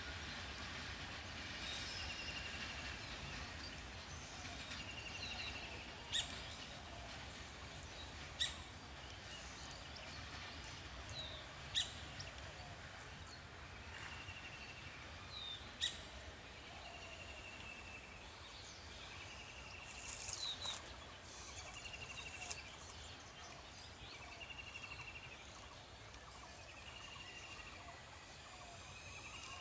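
Birds calling: a short trilled note repeated every couple of seconds and a few sharp, loud chirps, over a faint low rumble of the tank train moving off into the distance.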